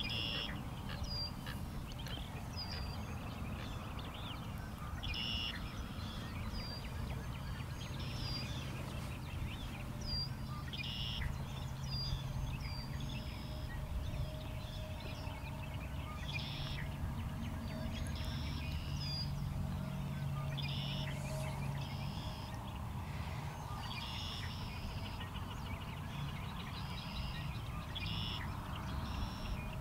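Birds chirping and calling in many short, high notes throughout, over a steady low rumble.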